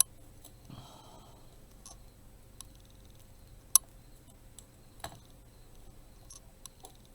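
Scattered small clicks and taps of hands handling craft materials, with one sharper click a little under four seconds in.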